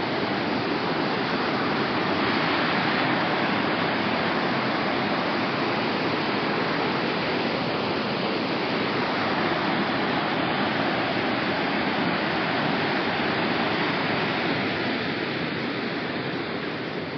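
Steady, unbroken rush of falling water from a waterfall, slightly quieter near the end.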